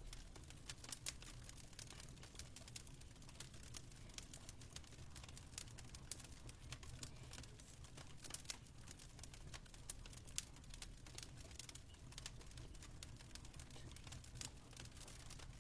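Fireplace fire crackling: scattered, irregular sharp pops and ticks over a steady low hum.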